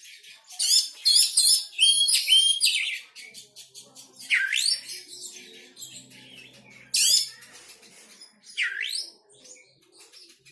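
Songbird singing: fast runs of high chirps and trills. Two calls swoop down in pitch and sharply back up, about four and a half and eight and a half seconds in.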